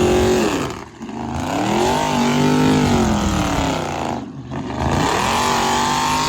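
High-powered V8 car engine revved hard. Its pitch climbs and falls three times, with two brief drops in between where the throttle lifts.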